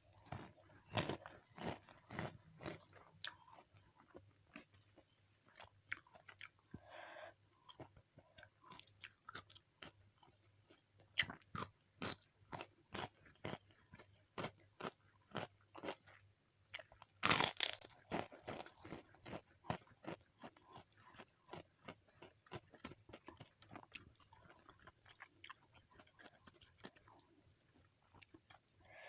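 Close-miked eating: a person biting into crunchy food and chewing, with sharp crunches at an irregular pace of about one or two a second. A burst of louder, crisper crunches comes a little past the middle.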